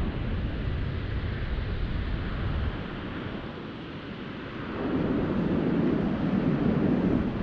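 Honda Cross Cub motorcycle being ridden, its engine and road noise under wind buffeting the microphone; the sound dips about three seconds in and picks up again a couple of seconds later.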